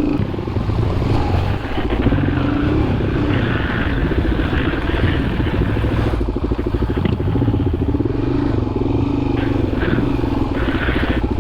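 Dual-sport motorcycle engine running while riding a dirt trail, its revs rising and falling with the throttle.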